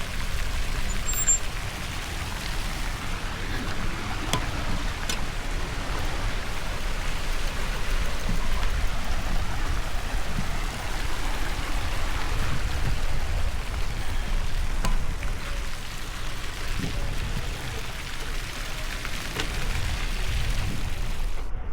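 Steady wind buffeting the microphone of a moving bicycle, with a constant hiss of road and traffic noise.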